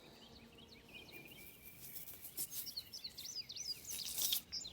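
Small songbird chirping in quick series of short rising and falling notes over a faint outdoor hiss, with a couple of brief rustles near the end.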